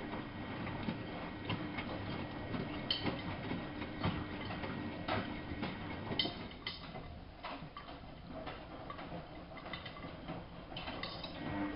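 Miele Novo Super W933 washing machine running: a steady low hum with irregular clicks and knocks.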